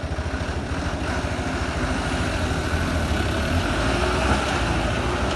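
Truck engine running with a steady low throb that grows slightly louder.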